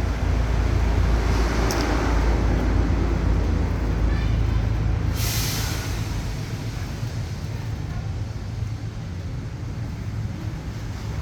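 Motor vehicle rumbling steadily, louder in the first half and easing off after about six seconds, with a short sharp hiss about five seconds in.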